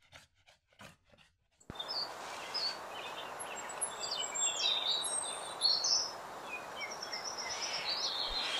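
American robin giving short, high chirps and calls, some sliding down in pitch, scattered over a steady background hiss that starts about two seconds in.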